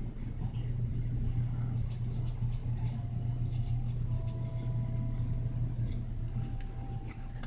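A steady low hum throughout, with a few faint ticks and rustles.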